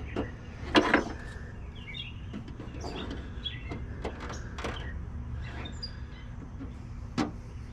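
Hands working a plastic running-light housing and its stripped plastic fasteners: scattered clicks and knocks, the loudest about a second in and another sharp click near the end. Faint bird chirps behind.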